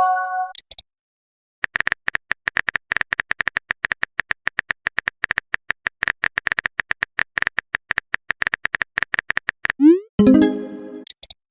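A fast, uneven run of short electronic blips, each with the same high tone. About ten seconds in it stops for a quick rising synth swoop and a short chord-like chime that fades out.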